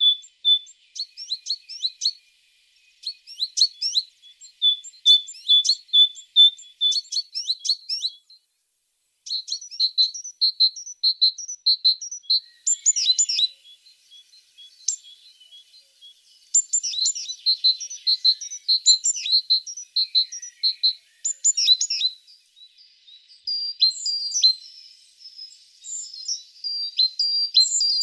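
Tit singing: phrases of quick, high, thin notes repeated in series, with short pauses between phrases and a brief silence about eight seconds in.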